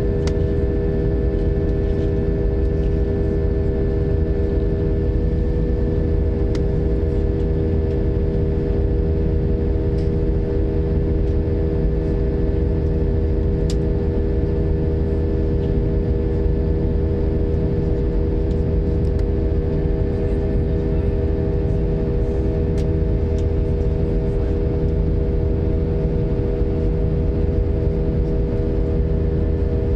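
Airbus A320 cabin noise: the jet engines and airflow give a steady low rumble with a constant whine of several held tones.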